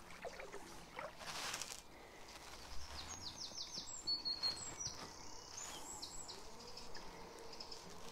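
A songbird singing quick falling high notes and a held note, with a brief soft swish about a second and a half in.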